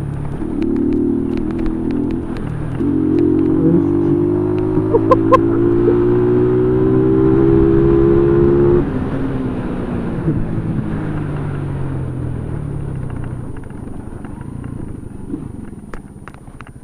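Motorcycle engine running and accelerating, its pitch rising steadily for several seconds. About nine seconds in the throttle shuts off suddenly, and the engine drops to a lower, fading run.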